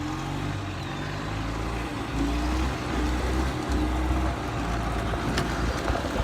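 Gas-powered utility vehicle's engine running as it drives, its note shifting up and down and getting louder about two seconds in.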